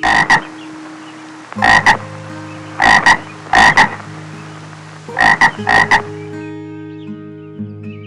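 Frog croaking: six loud double-pulsed croaks in the first six seconds, over steady background music.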